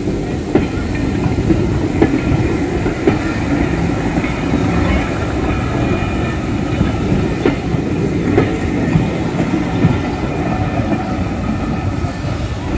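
Heritage railway passenger coaches rolling slowly past, a steady rumble of steel wheels on rail with knocks about once a second as the wheels cross rail joints.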